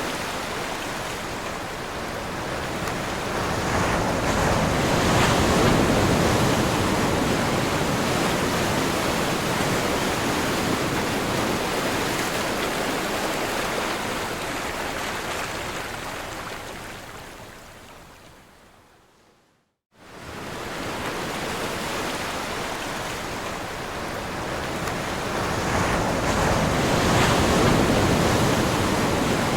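Ocean surf: a steady rush of waves that swells and slowly ebbs. About two-thirds of the way through it fades away almost to silence, then cuts back in abruptly and swells again.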